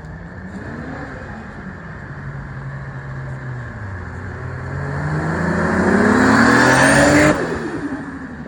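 A car engine accelerating hard, its note rising in pitch and getting louder over about three seconds to a peak near the end. The note then drops abruptly and falls away.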